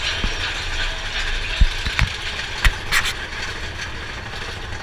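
Big Thunder Mountain Railroad mine-train roller coaster running along its track, heard from a car. It gives a steady rumble and rush of wind, with sharp clacks and knocks from the cars, about four of them in the middle.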